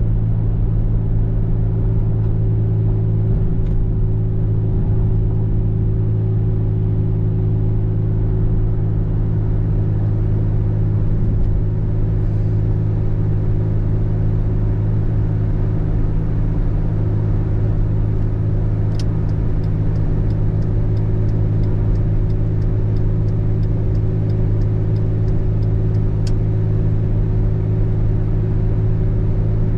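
Steady low drone of a car driving, with a run of faint, evenly spaced ticks, about two a second, for several seconds past the middle.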